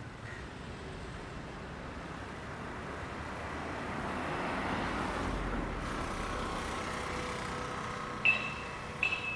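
A road vehicle passing by, its noise building to a peak about halfway through and then fading, followed near the end by two short vehicle horn toots.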